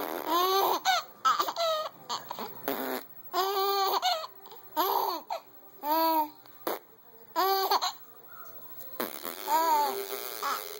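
A baby laughing in repeated short, high-pitched bursts with brief pauses between them.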